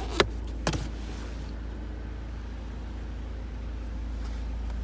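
Two sharp clicks in the first second, then the steady low hum of the Mercedes E220 CDi's four-cylinder diesel engine idling, heard from inside the cabin.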